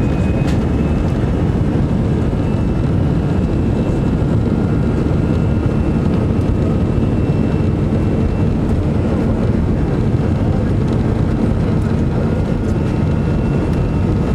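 Steady jet-engine rumble and airflow noise heard inside the cabin of an Airbus A319, with a faint steady high whine above it.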